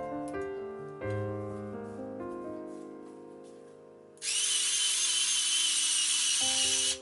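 Piano background music, then about four seconds in a loud, steady, high-pitched whir from a power tool that lasts about three seconds and cuts off suddenly.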